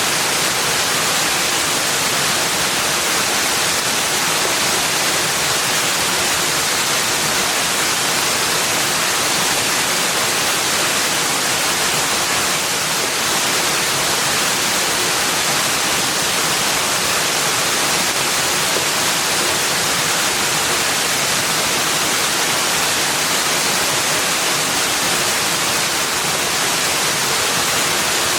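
Steady rushing water: an even, unchanging hiss with no distinct calls or events.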